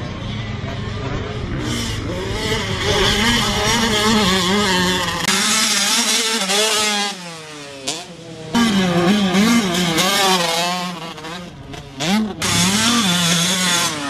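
Husqvarna TC 85 two-stroke motocross bike engine being ridden hard, its pitch climbing and falling with the throttle. It eases off around five seconds in and picks back up about eight and a half seconds in.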